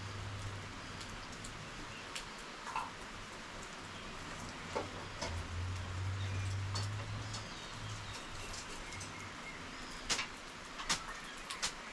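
Steady rainfall with a low hum that comes and goes, a few short chirps in the first half, and several sharp clicks near the end.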